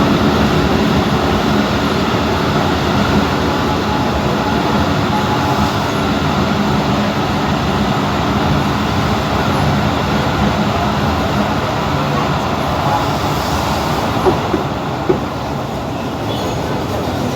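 Passenger train running along the track, a steady loud rumble of wheels and running gear with a low hum, and two short sharp clicks near the end.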